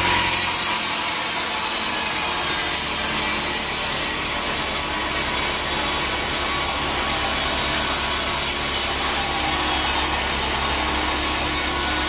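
A sawmill saw cutting through a teak log, giving a steady, loud rasping hiss of blade through wood over the machine's low hum.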